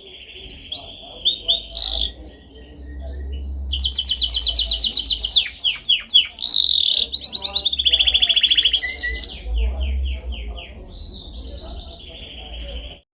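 Domestic canary singing a long, unbroken song of fast trills and rolled phrases that change from one run of repeated notes to the next. It is loudest in the middle and stops abruptly near the end, over a faint low hum.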